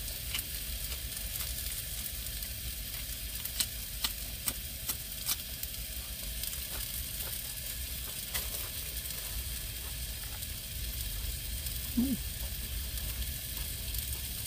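Beef sizzling steadily in a pan on the burner, with a few light clicks about four to five seconds in and a brief murmur from the eater near the end.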